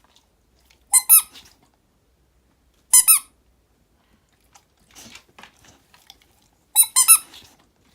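A squeaky toy squeaking three times: a quick double squeak about a second in, another squeak at three seconds, and a double squeak near the end, with faint rustling in between.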